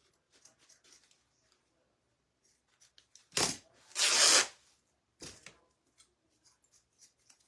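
A small piece of ribbon being cut off and handled, with three rasping bursts. There is a short one a little over three seconds in, a longer, louder one just after, and another short one about a second later.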